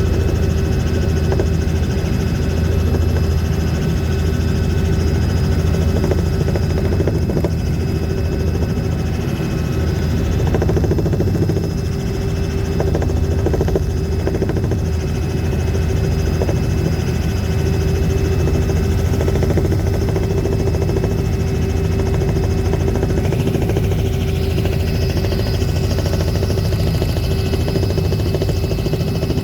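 Aircraft engine drone, loud and steady, with a deep rumble and a steady hum, as heard in flight. A higher tone rises in pitch over a few seconds near the end.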